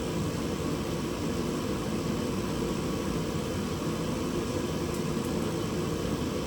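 Steady, unchanging blowing noise of a space heater running to warm a cold garage, heaviest in the low end.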